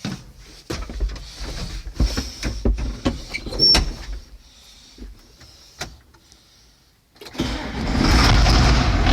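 Old John Deere diesel tractor engine cold-starting. Uneven cranking and knocking runs for a few seconds, then a short lull. About seven seconds in the engine catches and rises into a loud, steady run.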